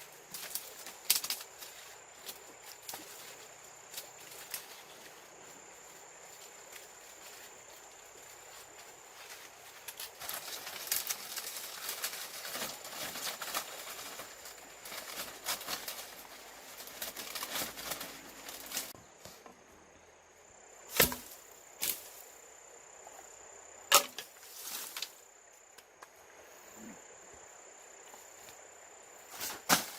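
A few sharp knocks and scattered clicks over a steady high-pitched insect drone. The knocks come about two thirds of the way in and again at the very end.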